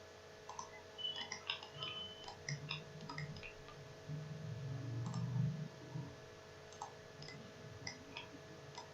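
Faint, irregular computer mouse clicks, several a second at times, as edges are picked and deselected, with a faint low background rumble in the middle.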